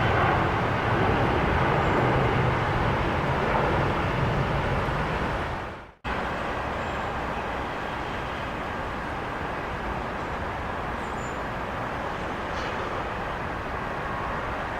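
Jet aircraft engine noise, a steady mix of low rumble and hiss that fades about six seconds in and breaks off abruptly, then carries on at a lower, even level.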